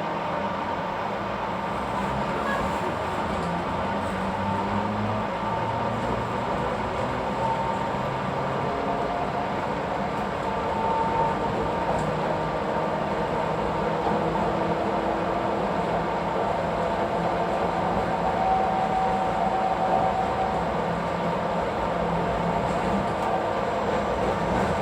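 Yokkaichi Asunarou Railway narrow-gauge electric train pulling away and running, a steady rumble of running noise with faint motor hums that shift in pitch as it gathers speed.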